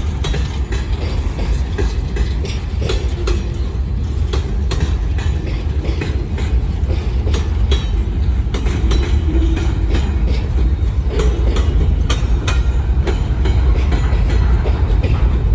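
Freight cars of a manifest train rolling past, with a steady low rolling noise and frequent sharp wheel clicks over the rail joints.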